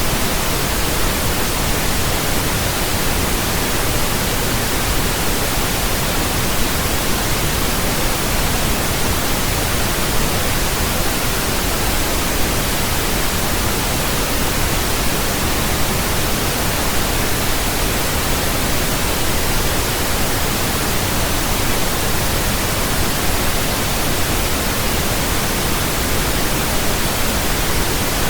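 Steady pink noise: an even, unchanging hiss with a deeper rumble than white noise.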